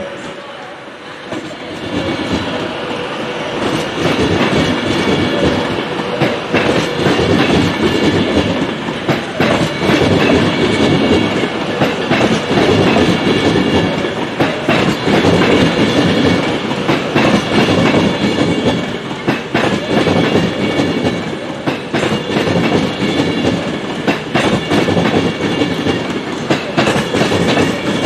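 A train running past at close range, its wheels clicking on the rails under a dense rumble, with a high steady whine over the top. It builds up about two seconds in and stays loud.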